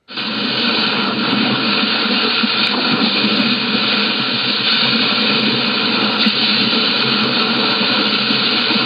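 Steady, loud rushing noise with no clear pitch or rhythm, starting abruptly out of silence.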